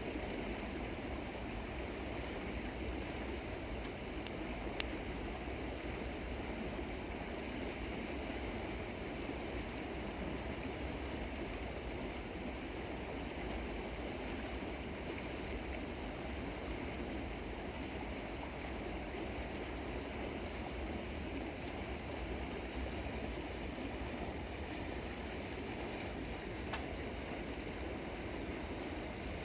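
River water flowing steadily, with a faint sharp click about five seconds in and another near the end.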